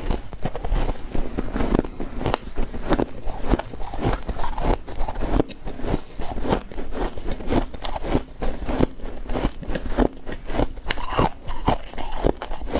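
Close-miked crunching and chewing of freezer frost in the mouth: dense, irregular crackles several times a second, throughout.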